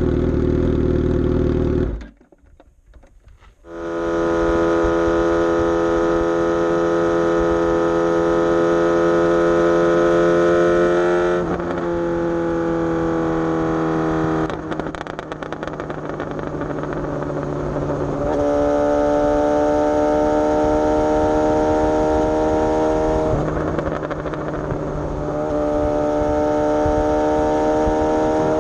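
Suzuki GSX-S750's inline-four motorcycle engine, with a Coffman's aftermarket exhaust, running at a steady pitch while riding, with several gear changes along the way. The sound drops out briefly about two seconds in.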